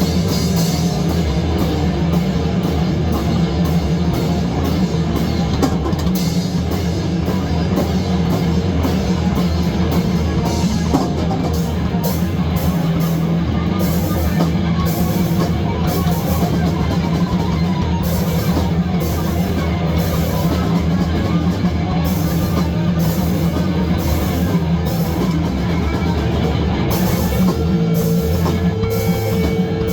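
Loud rock music with a drum kit and distorted guitar, cymbals striking in a steady beat.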